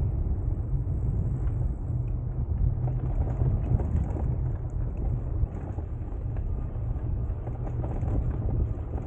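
Wind buffeting the microphone of a camera riding on a moving bicycle, over the steady rolling noise of the tyres on the path with many small ticks and rattles.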